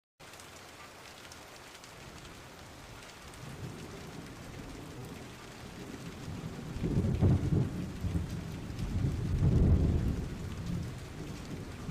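Heavy rain coming down steadily, with a low rumble of thunder that builds a few seconds in and is loudest about seven to ten seconds in.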